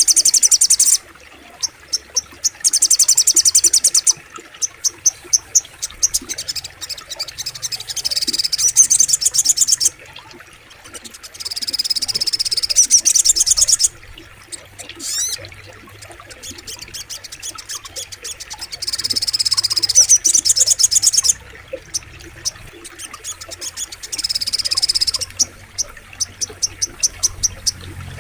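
Sogok ontong (spiderhunter) calling: bursts of very rapid, high-pitched chirping trills lasting one to two seconds, repeated again and again with short gaps, over a faint low background rush.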